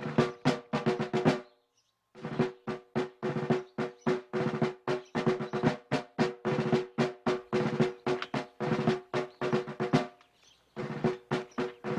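Drumming led by a snare drum, rapid even strokes about six a second over a ringing drum tone. It breaks off into silence briefly twice, about two seconds in and again near the end.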